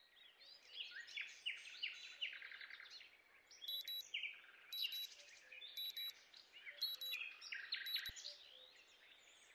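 Several small birds chirping and singing in quick, high trills, with one short high call repeating about once a second through the middle of the stretch.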